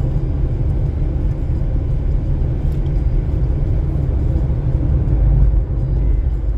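Steady low rumble of a car's engine and tyres on the road, heard from inside the cabin while driving, with a slight swell in the low end around five seconds in.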